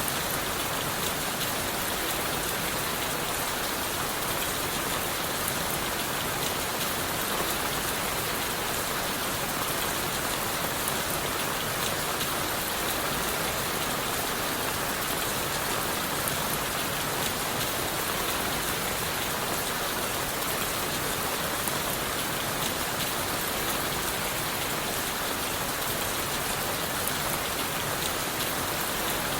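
Steady rain, a dense even patter of drops that holds at one level throughout.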